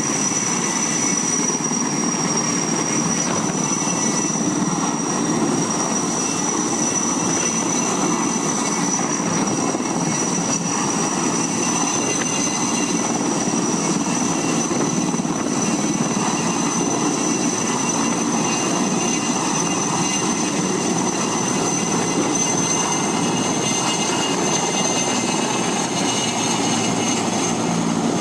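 Steady aircraft engine noise: a continuous rush with a constant high-pitched whine over it, unchanging throughout.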